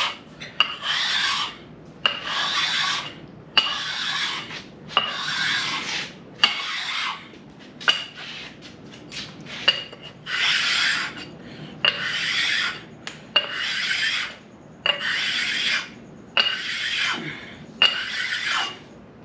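A sharpening stone being rubbed back and forth across the cast-iron deck of a 6.0 LS engine block, a rasping stroke about every second and a half, each beginning with a light click. The strokes pause for a couple of seconds midway, then resume.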